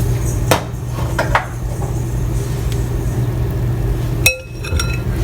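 Light clinks of a utensil against a bowl: a few knocks in the first second and a half, then one sharper clink with a short ring near the end, over a steady low hum.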